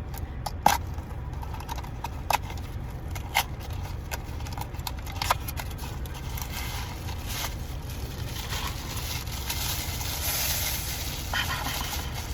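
Small cardboard blind boxes and plastic toy packaging being handled and opened: scattered sharp clicks and crinkling, heavier near the end, over a steady low hum.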